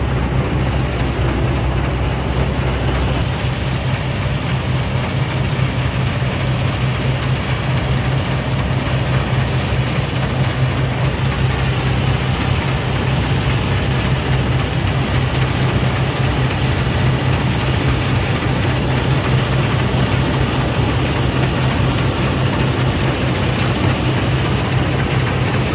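Fortschritt E514 combine harvester's diesel engine running steadily with a deep, even hum, under the noise of the cutting and threshing machinery, as it harvests the last part of the field.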